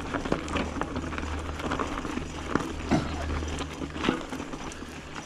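Mountain bike being ridden along a dirt trail: irregular clicks and knocks from the tyres and bike rattling over the ground, over a steady low rumble of wind on the microphone.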